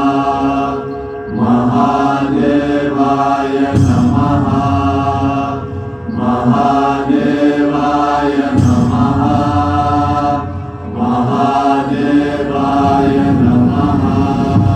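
A mantra chanted in long held phrases over a musical backing, the phrases separated by brief breaths; a heavier low backing comes in about four seconds in and thickens again past the halfway point.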